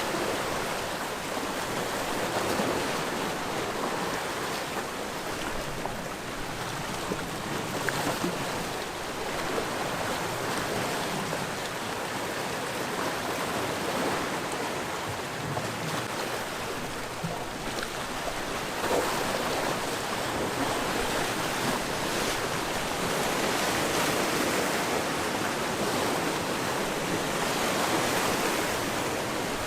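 Sea waves washing against the shore in a continuous rushing wash that swells and eases every few seconds.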